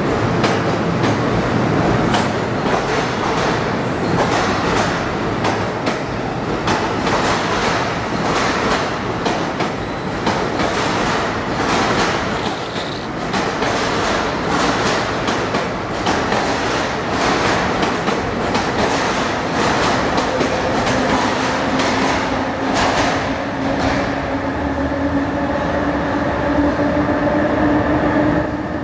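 NJ Transit double-deck commuter coaches rolling past along the platform, their wheels clacking over rail joints with a steady rumble. Over the last several seconds the clacking dies away and a steady hum takes over, rising slightly in pitch.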